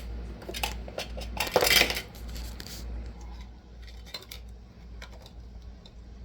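Scattered light clinks and knocks of a feeding spoon and dishes being handled, with a louder brief rustle about one and a half seconds in, over a steady low hum.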